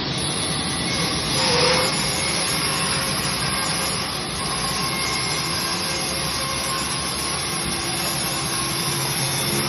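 A 42-inch cast-iron-body resaw bandsaw running and sawing wood with a steady mechanical noise. There is a brief louder swell about one and a half seconds in.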